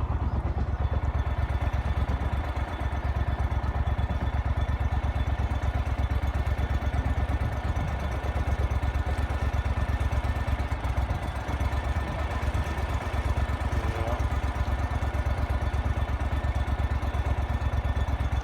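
A vehicle engine running steadily with an even, fast throb.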